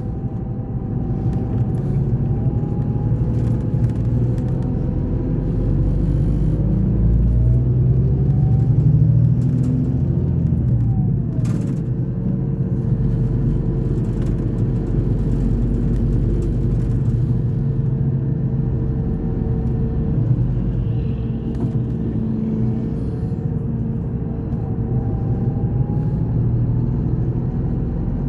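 Scania K420 coach's diesel engine running: a steady low rumble with engine tones that drift slowly up and down in pitch, growing a little louder about a third of the way in.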